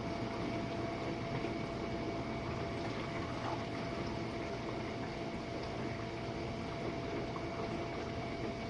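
Jenn-Air dishwasher running its Quick Wash cycle: a steady wash of churning water over a constant pump-motor hum.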